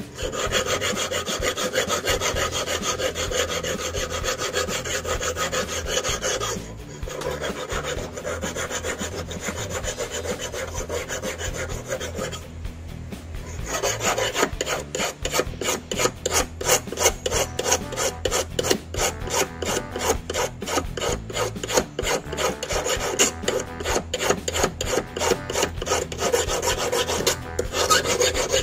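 Hand file scraping back and forth on steel wire in quick, even strokes, shaping a handmade fishing hook. The filing pauses briefly about 7 and 13 seconds in.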